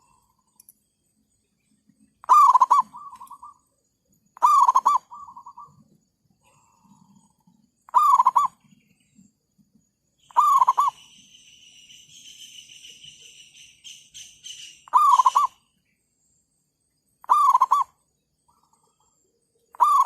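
Zebra doves cooing: seven short trilled coos repeating every two to three seconds. A steady high buzz runs underneath for several seconds in the middle.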